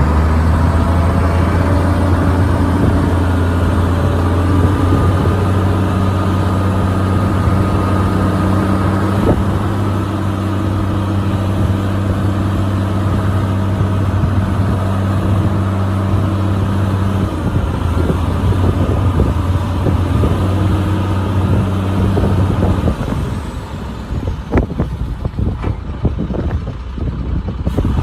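Heavy diesel engine of earthmoving machinery running steadily at a deep, even pitch. About 23 seconds in it drops away, leaving scattered clanks and knocks for the last few seconds.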